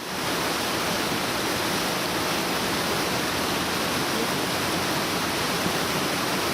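Artificial waterfall, its pumped water rushing in a steady, even roar of noise.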